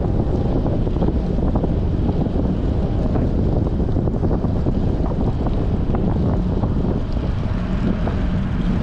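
Strong wind buffeting the microphone of a camera on a moving bicycle: a steady low rumble of wind noise.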